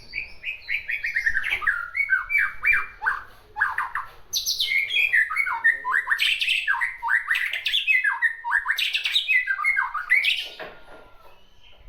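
Songbird singing hard and almost without pause: a fast, dense run of short notes, many sliding downward, with louder, busier stretches in the middle and near the end.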